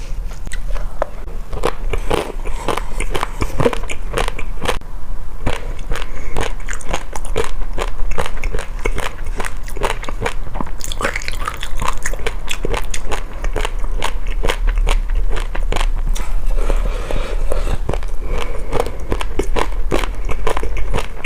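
Close-miked biting and chewing of crunchy food: a dense, irregular run of sharp crunches and crackles.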